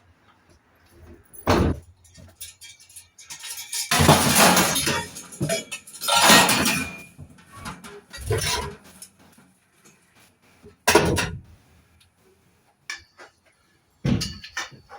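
Metal clanks and rattles from scrap radiator parts and brass fittings being handled and worked with a spanner. There is one sharp knock, then a busy stretch of clattering and scraping, then two more knocks.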